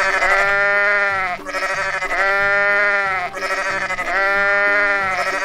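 Sheep bleating again and again: long, wavering bleats about a second each, following one another with hardly a pause.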